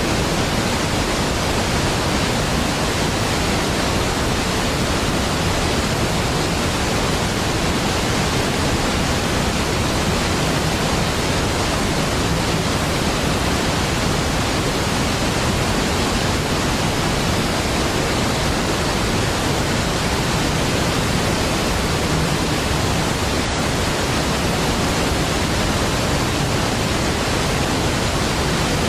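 Large waterfall rushing steadily: an even, unbroken wash of falling water from deep to hiss, with no change in level.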